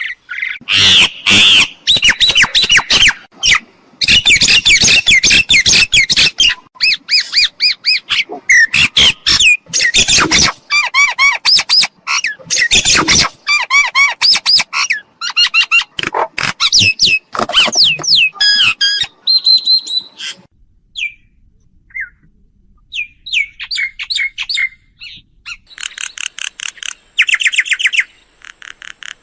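Myna calls: a loud, dense run of harsh chatters, clicks and whistled notes that thins out after about twenty seconds, then picks up again in a shorter burst near the end.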